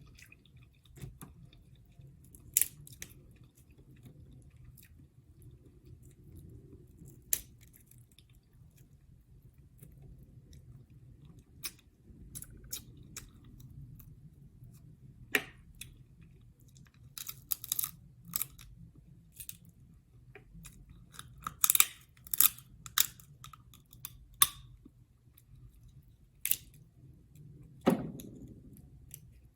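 Close-miked chewing and wet mouth sounds of someone eating seafood, with scattered sharp clicks and cracks that come thickest in the second half and one louder crack near the end.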